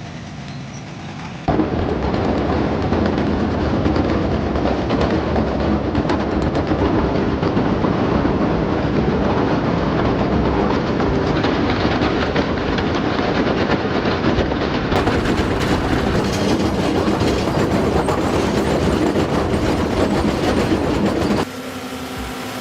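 Large rock trencher's digging chain cutting through dirt and rock: a loud, continuous clattering grind. It starts abruptly about a second and a half in and drops away suddenly near the end.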